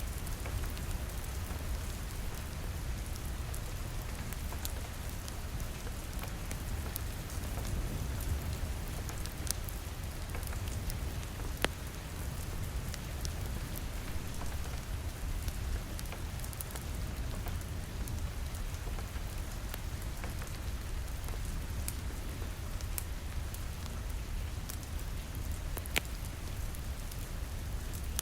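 Steady rain falling against a window, an even hiss over a deep rumble, mixed with a fireplace fire crackling. Scattered sharp clicks and pops run through it, with a louder pop about twelve seconds in and another near the end.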